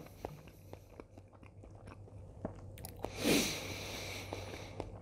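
A person chewing food with the mouth closed, small wet mouth clicks throughout; about three seconds in, a short rushing breath.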